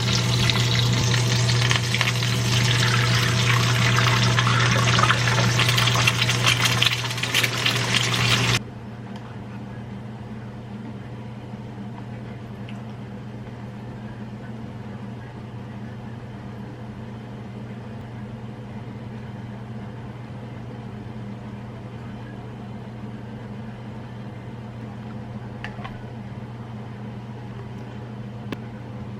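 Water rushing, with a strong steady mechanical hum, cuts off abruptly about eight and a half seconds in. A quieter steady appliance hum carries on after it, with a couple of faint clicks near the end.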